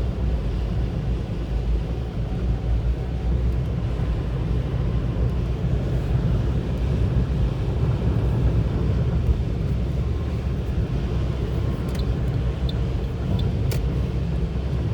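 Car driving on icy, salted winter roads, heard from inside the cabin: a steady low rumble of engine and road noise with tyre hiss, and a few light ticks near the end.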